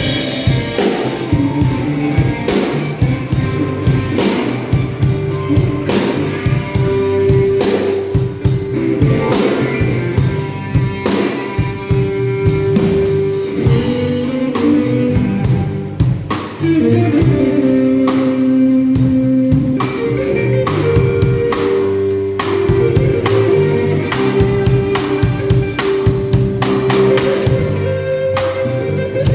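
Live slow-blues jam: electric guitar playing a lead with long held, bending notes over bass and drums.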